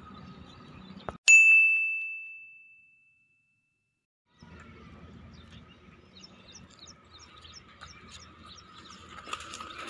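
A single bright ding sound effect about a second in, ringing one clear tone that fades out over about a second and a half, followed by a short dead silence. Faint outdoor background then returns, with birds chirping repeatedly.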